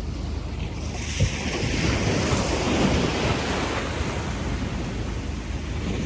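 Small ocean waves washing onto a sandy beach: a wave breaks and its wash swells and then slowly ebbs, over a low rumble of wind on the microphone. A short thump about a second in.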